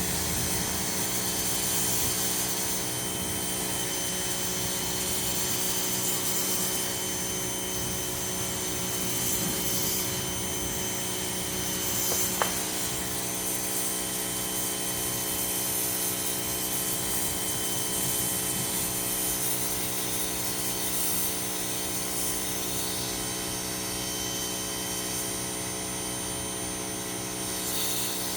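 Ryobi 2000 psi pressure washer running steadily, its motor drone carrying a spray hiss that swells and fades as the jet is moved. One sharp click about twelve seconds in.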